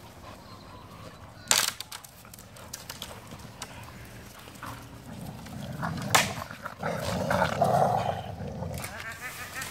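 Dogs, one of them an American Pit Bull Terrier, growling at each other in a play fight over a stick, mostly noise rather than real biting. The growling swells from about halfway through, with a couple of sharp knocks along the way.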